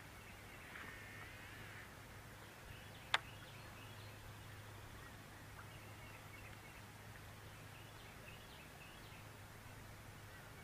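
Faint bird chirps and calls over a steady low hum, with one sharp click about three seconds in.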